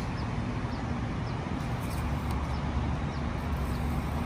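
Steady low outdoor rumble, with a small bird giving a series of short high chirps about every half second to a second.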